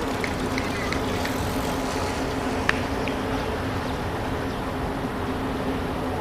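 Steady outdoor background noise with a faint low hum, and one short sharp click a little under three seconds in.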